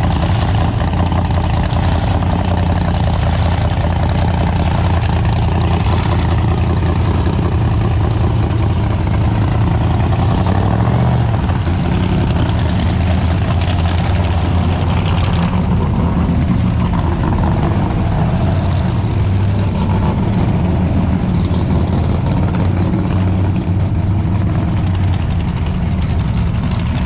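Engines of classic and custom cars idling and running at low revs as the cars pull out of a parking lot. It is a steady, deep engine sound that keeps going throughout.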